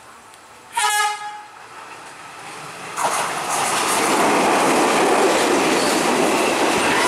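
Sri Lanka Railways Class S12 diesel multiple unit giving one short horn blast about a second in. From about three seconds in, the loud rushing rumble and clickety-clack of the train running through the station at speed.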